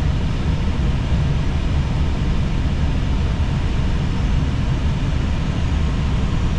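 Airbus A320 cockpit noise on final approach: a steady rush of airflow and engine noise, a dense low rumble without breaks.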